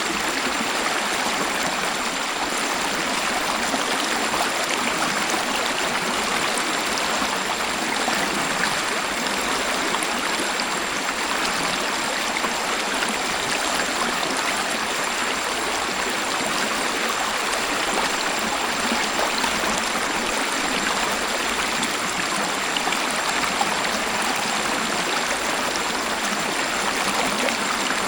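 Waterfall: water rushing and splashing in a steady, even hiss, with little deep rumble.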